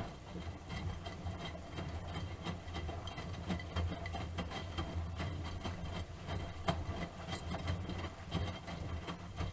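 Miele Softtronic W3923 front-loading washing machine turning its drum in the wash phase: a steady motor hum with the laundry tumbling and knocking inside. The drum stops suddenly near the end.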